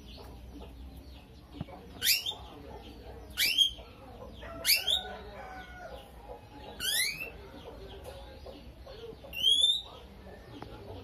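Lovebird calling: five loud, short, high calls, each rising sharply in pitch, spaced irregularly a second or two apart over continuous softer chirping.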